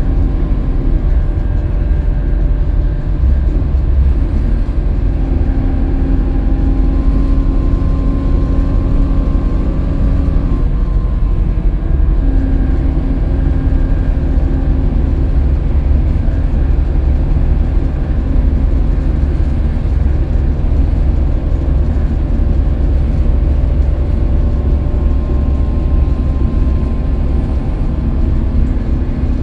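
Scania K320UB city bus running under way: a steady, loud low drone of engine and drivetrain, with tones over it that shift as the bus changes speed and drop out briefly about ten seconds in.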